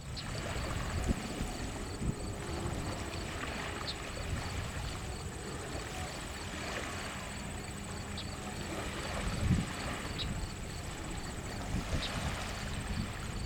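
Steady distant jet engine noise from a departing Korean Air Cargo Boeing 777 freighter, an even rushing rumble with no speech over it.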